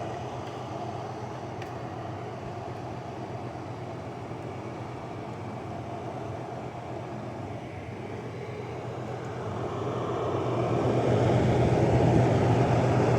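LG 6000 BTU window air conditioner running on its fan alone, a steady airy whoosh over a low hum. The compressor is still off, waiting out its three-minute start delay. The sound grows louder about ten seconds in.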